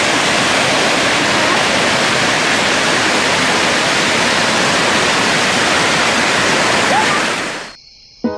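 Waterfall, its falling water making a loud, steady, even rush that fades out about seven and a half seconds in.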